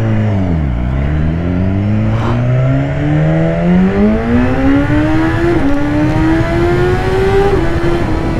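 BMW S1000RR's inline-four engine accelerating hard: the revs climb steadily from low, broken by two quick upshifts about five and a half and seven and a half seconds in, over wind rush.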